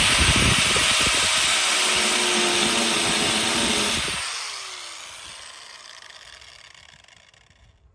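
A hand-held disc cutting tool running at full speed while cutting into the truck's sheet-metal body. About four seconds in it is switched off and spins down, its whine falling in pitch until it stops.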